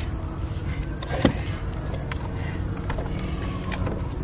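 A steady low rumble with a few sharp knocks and clatters, the loudest about a second in.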